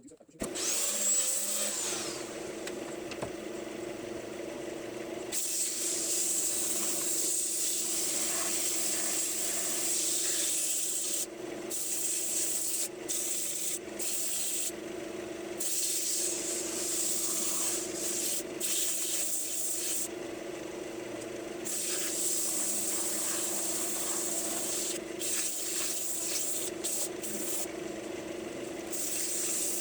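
Wood lathe running with a steady motor hum while sandpaper is held against the spinning maple bowl, making a continuous rubbing hiss. The hiss drops out briefly several times as the paper comes off the wood.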